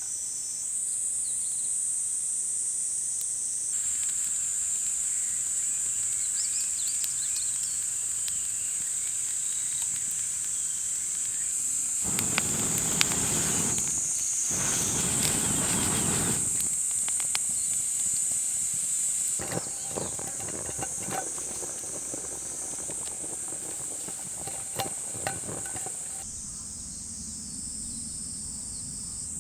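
Insects, crickets or similar, chirring in a steady high-pitched chorus. Partway through comes a few seconds of rushing noise, and later scattered small clicks and crackles.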